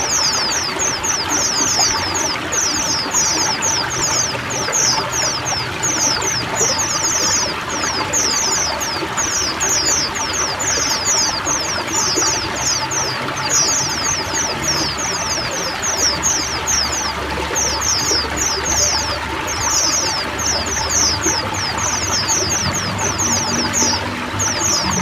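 A flock of white-eyes chirping without pause in rapid, high, falling notes over the steady trickle and splash of running water.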